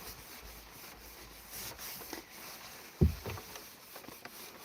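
Faint rubbing and handling noise, with one dull thump about three seconds in.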